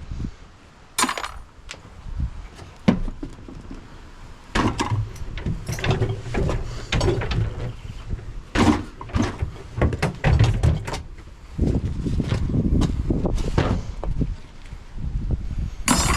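Irregular knocks, clunks and rattles from a fridge-freezer being dismantled by hand, with handling noise between the strikes.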